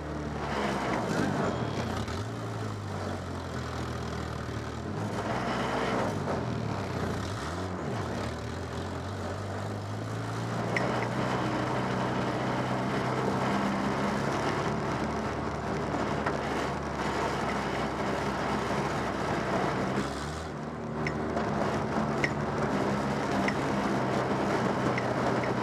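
Stock car engine heard from inside the cockpit, its revs rising and falling in the first few seconds, then running steadily under power. The revs drop briefly about twenty seconds in, and a few sharp ticks sound near the end.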